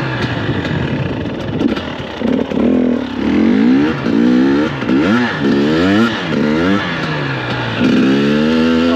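The 2021 KTM 250 XC-W's two-stroke single-cylinder engine revs up and down repeatedly as the throttle is worked. Its pitch rises and falls about once a second through the middle, then holds steadier near the end.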